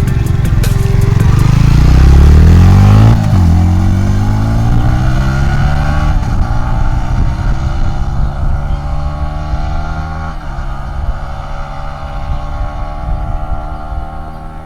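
Yamaha MT-15 V2's 155 cc single-cylinder engine in a fly-by: it draws near under load, loudest about two to three seconds in, then drops suddenly in level and pitch as it passes. It goes on accelerating away, the pitch climbing with short breaks about six and ten seconds in, fading toward the end.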